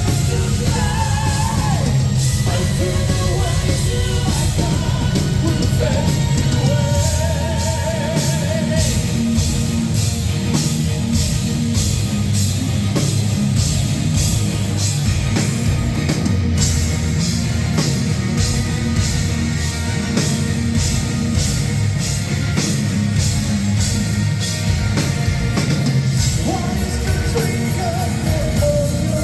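Symphonic metal band playing live and loud, with heavy drums and guitars. Singing is heard over the first several seconds and returns near the end, with an instrumental stretch of rapid, even drum strokes between.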